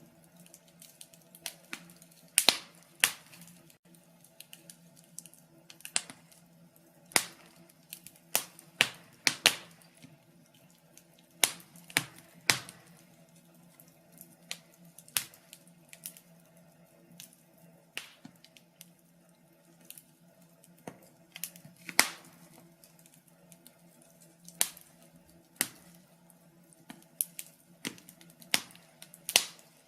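Wood fire in a fireplace crackling, with irregular sharp pops and snaps, sometimes two or three close together, over a faint steady low hum.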